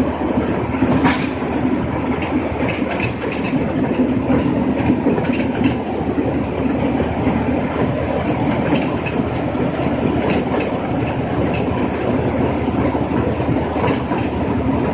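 Tractor-driven mini rice mill (paddy huller) running steadily: a dense mechanical rumble with light, irregular rattling on top.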